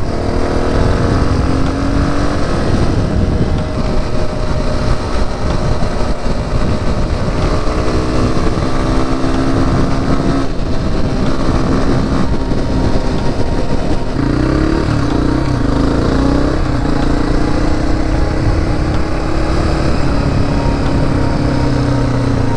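Honda CRF250F's air-cooled single-cylinder four-stroke engine running under way, its pitch slowly rising and falling as the throttle changes, with a more uneven stretch of revving about two-thirds of the way through. A steady rush of wind noise runs under it.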